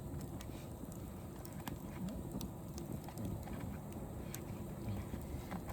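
Wood bonfire crackling, with scattered sharp pops about once a second over a low steady rumble.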